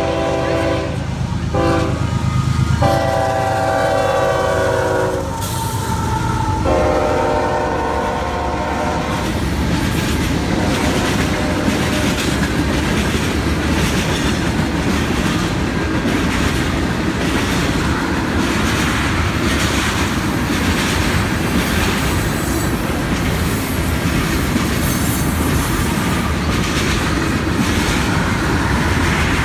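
Union Pacific freight train's diesel locomotive sounding its multi-note air horn in several blasts for a grade crossing, the last blast ending about nine seconds in. After that the freight cars roll past with a steady rumble and the rhythmic clickety-clack of wheels over rail joints.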